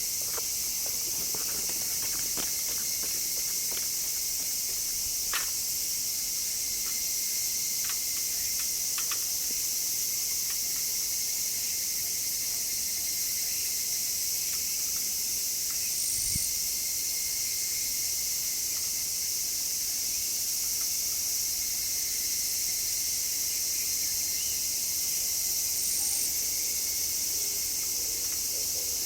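Steady high-pitched chorus of summer insects, with a few faint ticks in the first ten seconds and a soft low thump about midway.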